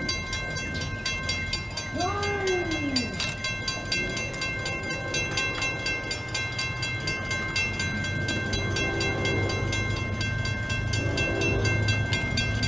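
Grade-crossing warning bell ringing steadily with the signals activated. A brief swooping tone comes about two seconds in. From about two-thirds of the way through, an approaching CSX freight locomotive's horn sounds in blasts over a growing rumble from the train.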